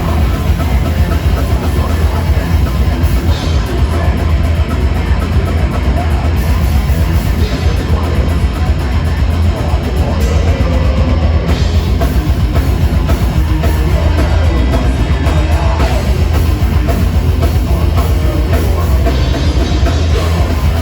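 A rock band playing live, with drum kit and guitar, loud, continuous and heavy in the bass.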